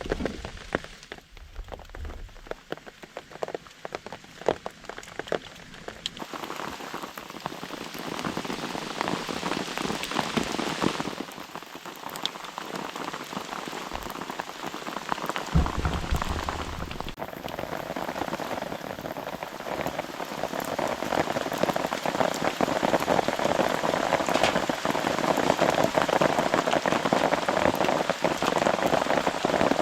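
Rain falling on a camp tarp: scattered separate drops at first, thickening after a few seconds into a steady patter that grows heavier near the end, with one brief low thud about halfway.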